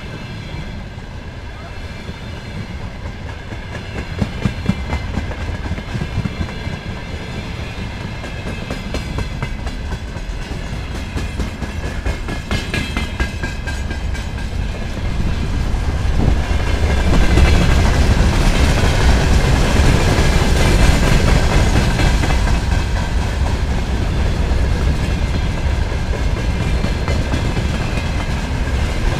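Freight train wagons rolling past at speed, their wheels clacking rhythmically over the rail joints with a steady rumble underneath; it grows louder about halfway through.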